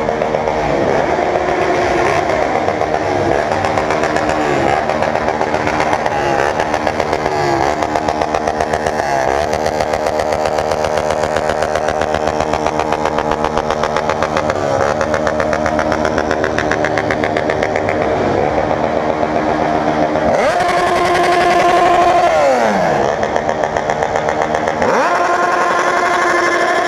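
Motorcycle engines revved in quick blips again and again, then cut off at the rev limiter (cortando de giro). About twenty seconds in, one is held high and steady for a couple of seconds before its pitch falls away, and it is revved up again near the end.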